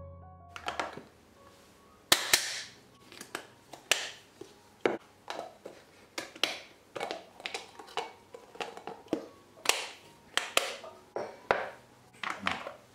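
Snap-lock lunch box lids being closed on glass and plastic food containers: many sharp plastic clicks and snaps at irregular intervals as the locking tabs are pressed shut one after another.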